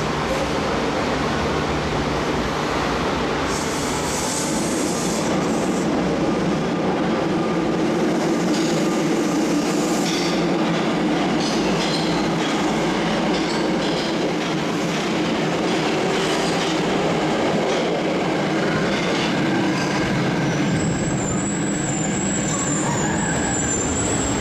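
Tokyo Metro Ginza Line 01 series subway train pulling out of an underground station: a steady, loud rumble of wheels and running gear on the rails. Near the end there is a thin high wheel squeal.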